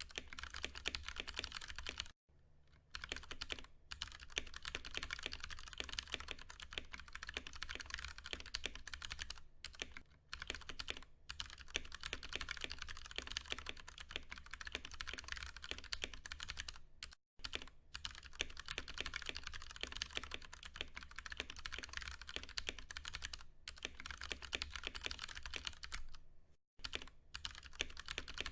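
Continuous fast typing on a Ducky One 2 Mini mechanical keyboard with Cherry MX Brown tactile switches, a dense run of key clicks broken by short pauses about two seconds in, near the middle and near the end. A low steady hum runs underneath.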